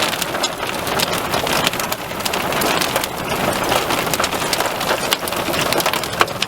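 Heavy rain falling close to the microphone, a steady hiss broken by many separate sharp drop hits.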